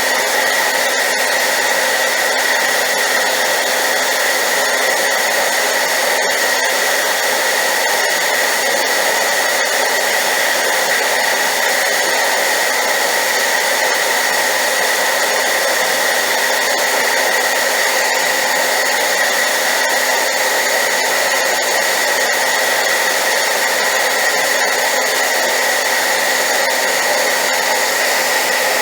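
Hair dryer running steadily on high: a constant loud rush of blown air with a steady high whine in it, used as white noise.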